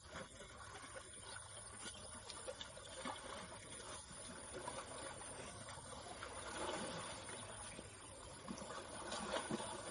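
Moving water with irregular small splashes, gradually growing louder.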